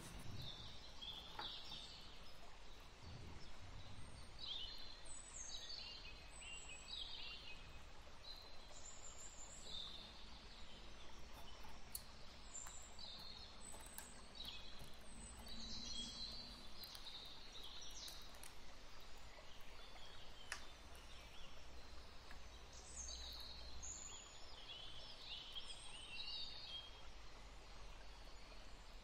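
Small birds chirping and singing in many short, quick calls over a low steady background hiss.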